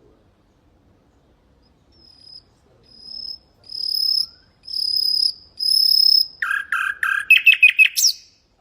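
Nightingale singing one song phrase: after a short pause, a run of five pure, high whistled notes that grow louder and longer, then a quick rattle of lower, harsher notes and rapid clicks, ending on a rising whistle near the end.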